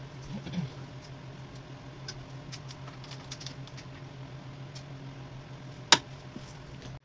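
Scattered light clicks and taps over a steady low hum, with one sharp click about six seconds in.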